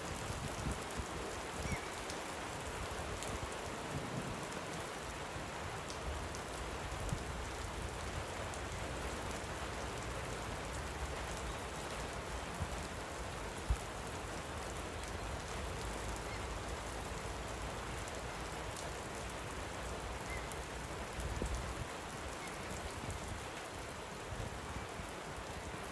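Steady light rain pattering, with fine scattered drop ticks and a low rumble underneath; one sharper tap a little past the middle.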